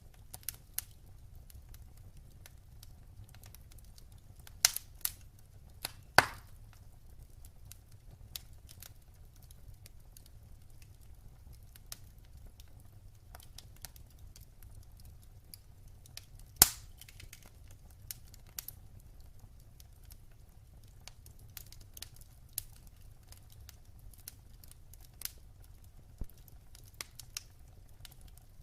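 Wood fire crackling in a fireplace: a low steady rumble of the flames with scattered sharp pops and snaps, the loudest about five, six and sixteen seconds in.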